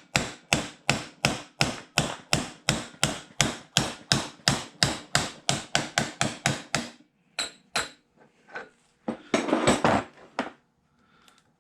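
Hammer tapping a bearing drift in an even rhythm of about three blows a second, driving the hub bearing out of a Stella scooter's engine case. The taps stop about seven seconds in, followed by two light clicks and a brief clatter.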